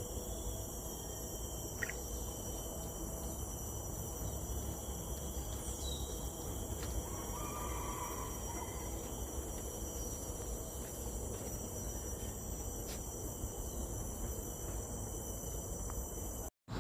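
Insects droning steadily in several high, even tones, under a low steady rumble, with a few faint clicks.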